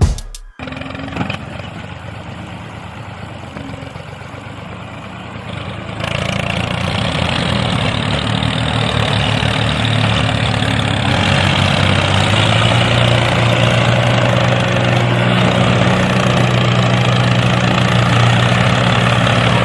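A small vehicle's motor running steadily, with a low hum that gets louder about six seconds in.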